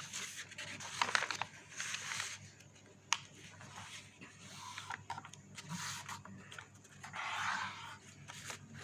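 A sheet of chart paper being folded into a triangle and creased by hand: scattered crackles and taps with stretches of rustling, a longer rustle near the end.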